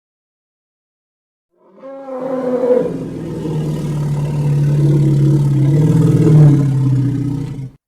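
Elephant giving a long, low, rough roar. It comes in about two seconds in, sliding down in pitch at first, then holds steady for about six seconds before cutting off.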